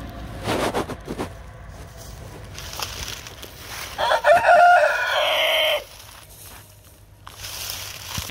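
A rooster crowing once, a drawn-out call of nearly two seconds starting about four seconds in, after a few short scuffing sounds.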